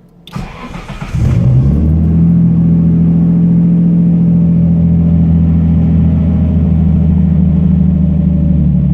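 Nissan RB25DET turbocharged inline-six in a Datsun 240Z starting from stone cold: the starter cranks for about a second, the engine catches with a brief flare, then settles into a steady idle.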